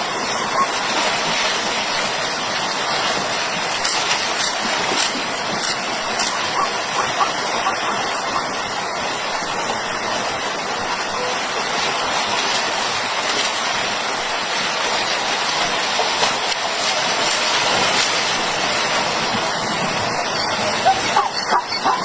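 Steady rush of river water, with a quick run of short, sharp sounds near the end.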